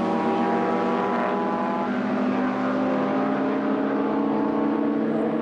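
Historic sports-racing cars' engines running at race speed on the circuit, a steady mechanical drone with several overlapping engine notes.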